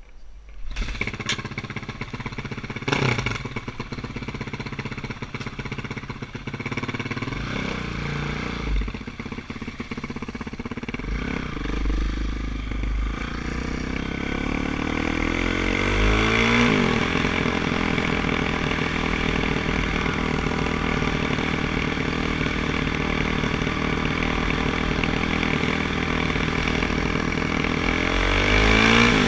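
Kawasaki KX450F dirt bike's single-cylinder four-stroke engine running under throttle. It comes in abruptly about a second in, then rises and falls in pitch with throttle and gear changes, with a sharp drop and climb partway through, and grows louder toward the end.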